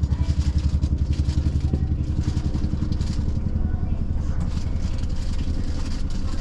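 Low mechanical hum from the onboard machinery of a standing electric train, pulsing about ten times a second at first and settling into a steadier drone after about two seconds.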